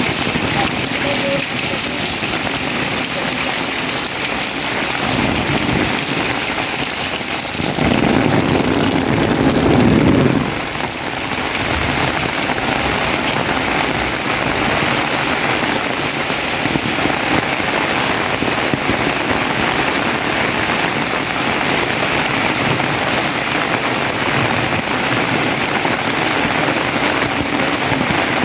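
Heavy tropical rain pouring steadily onto the ground and surfaces around. A louder low rumble swells for a couple of seconds about eight seconds in.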